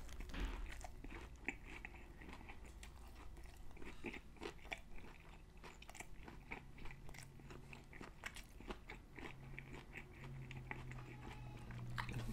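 Close-up chewing of a mouthful of sauce-drenched crispy fried chicken sandwich, with many small, irregular crunches of the breading. A low steady hum comes in for the last few seconds.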